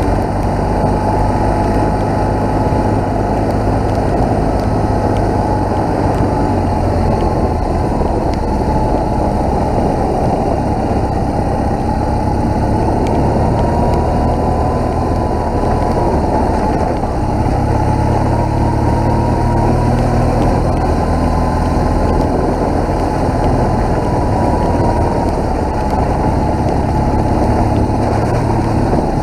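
BMW motorcycle engine running steadily while riding, its pitch drifting slightly with the throttle, mixed with wind and road noise.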